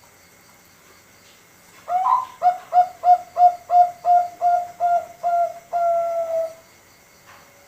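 Zebra dove (Bangkok contest-line perkutut) cooing: a rapid series of about a dozen short coos, roughly three a second, ending in one longer drawn-out note.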